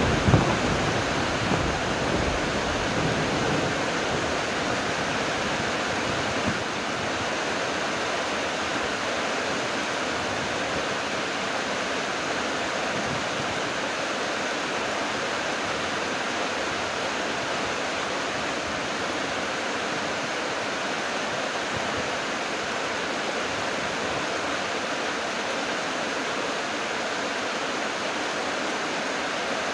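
Heavy rain falling steadily in an even hiss. Gusts of wind buffet the microphone during the first few seconds, then die away, leaving only the rain.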